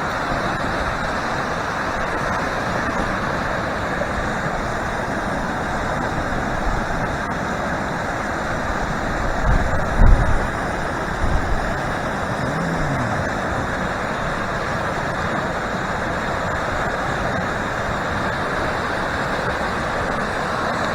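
Steady rush of a river swollen by heavy rain, its water running fast and full. A few brief low bumps about halfway through.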